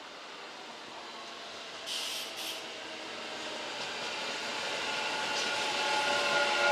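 Kintetsu electric train approaching, growing steadily louder, with several steady tones from its running gear strengthening as it nears. Two short hissy bursts about two seconds in.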